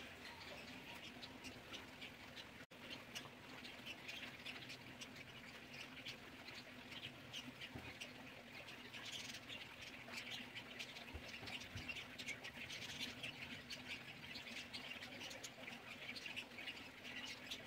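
Small birds chirping faintly and busily, many short high chirps throughout, over a low steady hum.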